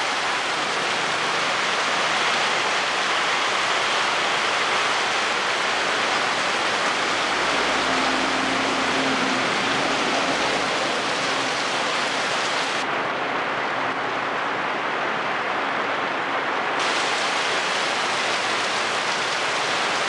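Steady rain falling, a dense, even hiss of drops that turns duller in the highs for a few seconds past the middle.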